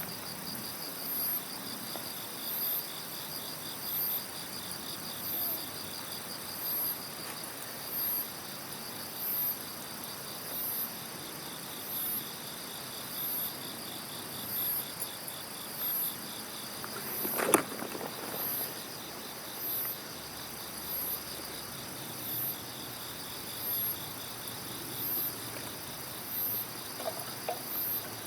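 Insects chirping: a high chirp repeating about every second and a half over a steady trill. A single sharp crack, a burning log popping in the campfire, comes about halfway through.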